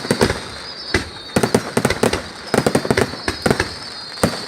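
Fireworks going off in rapid, irregular bangs and pops, several a second, with a faint high whistle running beneath them.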